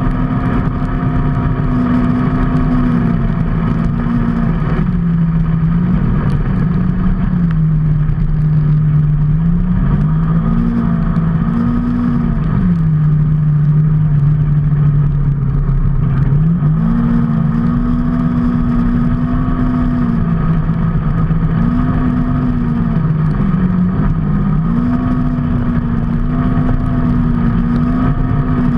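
A vehicle engine running on the move over a steady rush of noise, its pitch dropping and climbing back several times: it falls around five seconds in, rises again near ten seconds, falls once more for a few seconds and climbs back at about seventeen seconds.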